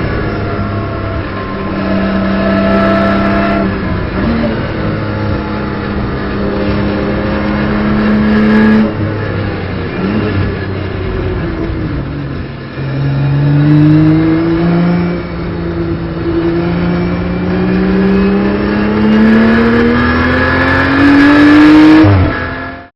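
In-car sound of a BMW M240i Racing Cup car's turbocharged straight-six at racing speed. The pitch climbs steadily through each gear and falls at the gear changes and braking points. The second half holds a long rising pull.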